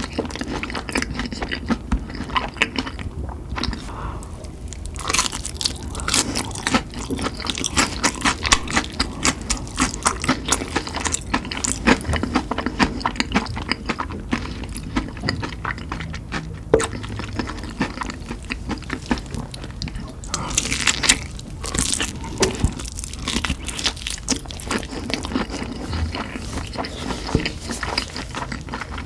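Close-up chewing and biting of spicy chicken: a steady run of irregular crunches and crackles.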